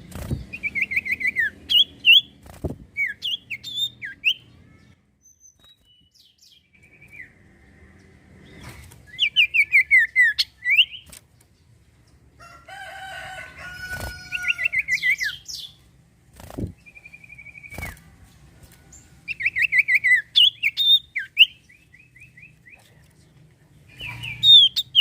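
Common iora (cipoh) singing in bursts of rapid, falling chirped notes, with one drawn-out whistled note midway. A few sharp clicks or flutters come between the phrases.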